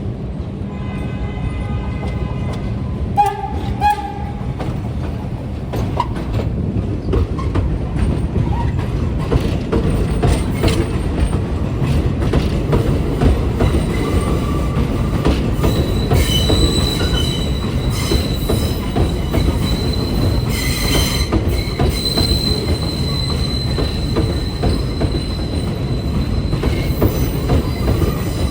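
R62 subway train running through the station, a steady rumble of wheels on rail. Brief tones come about three seconds in, and from about halfway on a high steady wheel squeal rides over the rumble.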